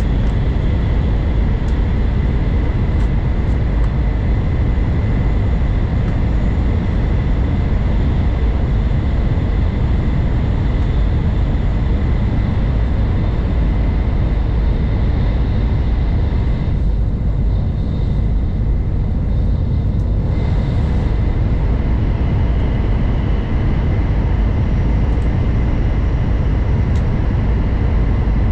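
N700 Series Shinkansen running at high speed, heard from inside the car: a loud, steady rumble with a constant high whine over it. About two-thirds of the way through, the upper part of the noise drops away for a few seconds and then comes back.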